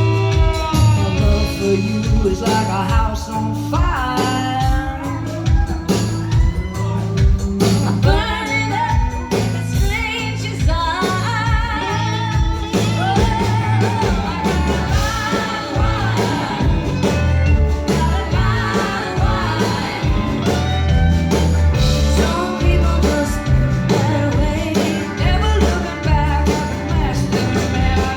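Live band playing a rock song with singing, over a steady bass and drum beat.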